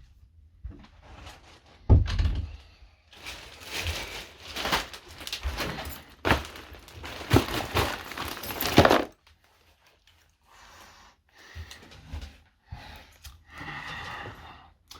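A thump about two seconds in, then several seconds of loud crinkling and rustling with sharp knocks, and quieter scattered handling noises after that.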